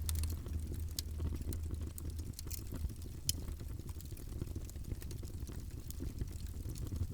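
Wood fire burning in a fireplace: a steady low rumble of flames with scattered sharp crackles and pops, one louder pop a little past halfway.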